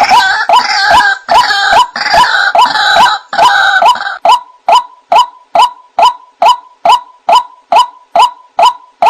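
White-breasted waterhen (ruak-ruak) calling. It starts with a rough, crowded run of harsh croaking notes, and about four seconds in it settles into a steady series of single 'kwak' notes at one pitch, a little over two a second.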